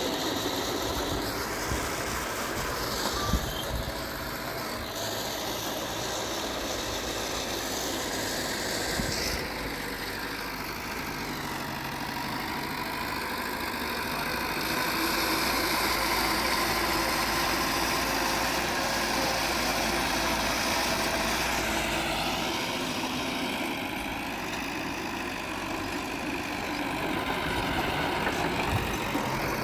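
Diesel engine of heavy earthmoving machinery running steadily, growing somewhat louder through the middle and easing off again, then building once more near the end.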